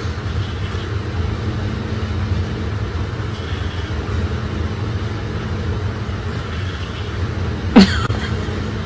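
Steady low rumble like a car running, with a single short high cry that falls sharply in pitch near the end.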